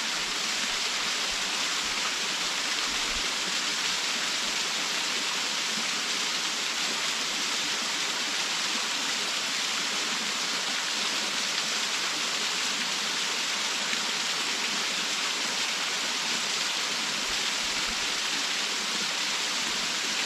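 Waterfall pouring steadily: an even, unbroken rush of falling water, strongest in the hiss.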